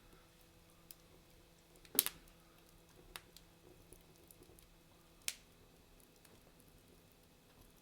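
Wood fire crackling in a fireplace: faint scattered ticks, with two sharper pops about two seconds in and just after five seconds.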